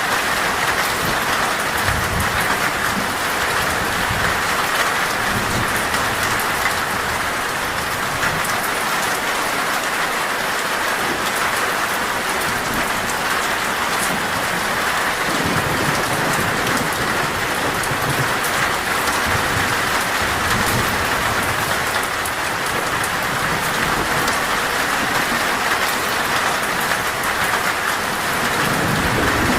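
Torrential rain falling steadily on a metal roof. Low rumbles of thunder come about two seconds in, around the middle and near the end.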